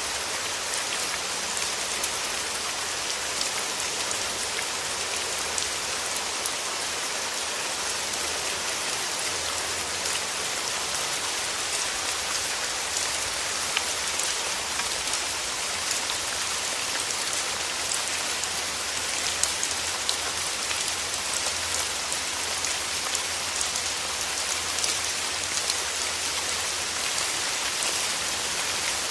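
Steady rain: a dense, even hiss with many small, sharp drop ticks scattered through it.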